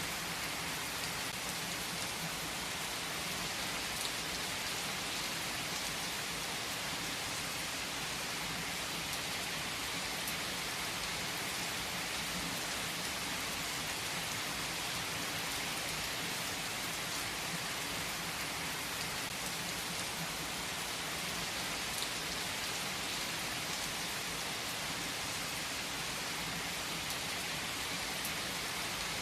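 Steady, even rain, a dense hiss of drops falling on a surface, with an occasional faint crackle from a wood fire.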